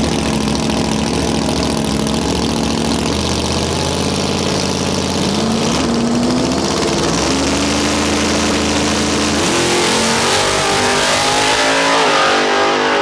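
Car engine running at a drag strip, its note stepping up and gliding higher in pitch a few times, then a louder rushing noise building about ten seconds in.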